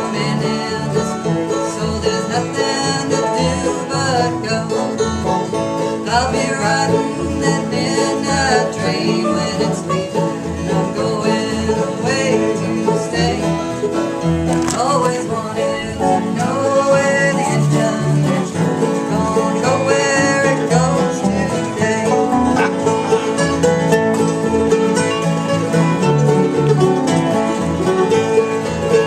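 Bluegrass string band playing an instrumental stretch, banjo and guitar over a steady, evenly pulsing bass beat.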